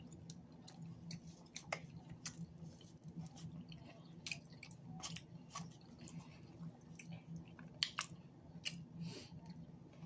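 Close-up mouth sounds of someone chewing loaded flatbread pizza: soft chewing with many short, irregular clicks and smacks, over a faint steady low hum.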